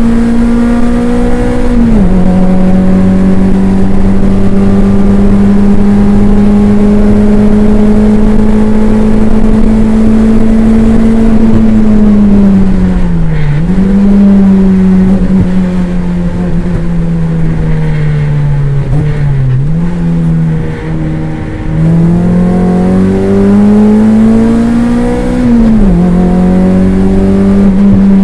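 Toyota MR2 race car's engine heard from inside the car at race pace, held at high revs. The pitch drops sharply with an upshift about two seconds in, sags and dips twice through the middle as the car slows for corners, then climbs again to another upshift near the end.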